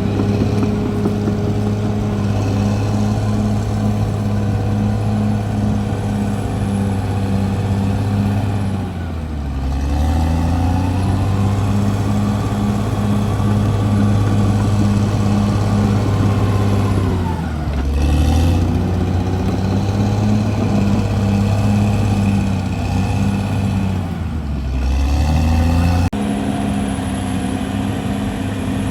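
CAT D6R bulldozer's diesel engine running steadily at high revs, its pitch sagging briefly and recovering three times as it takes and sheds load.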